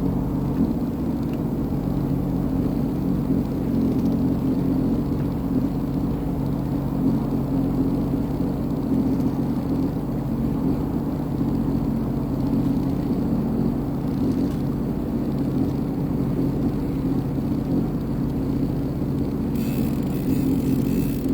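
2023 Sea-Doo Fish Pro personal watercraft's engine running at steady revs, with a low rumble underneath.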